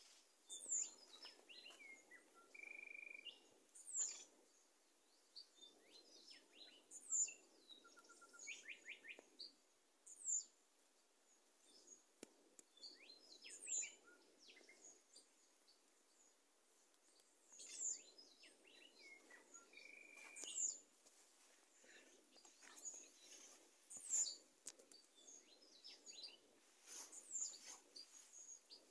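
Wild birds calling: sharp, falling chirps every few seconds, with two short steady whistles and a brief trill, over faint low background noise.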